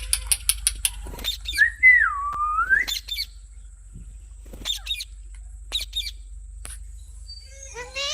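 Pet parrot calling in short, quick chirps and squawks, with one drawn-out whistle about two seconds in that dips and then rises in pitch.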